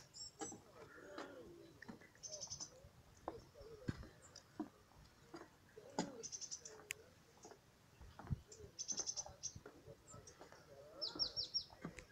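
A small bird in the reeds singing short, rapid, high-pitched chirp series about every two to three seconds. Underneath are footsteps knocking on the planks of a wooden boardwalk.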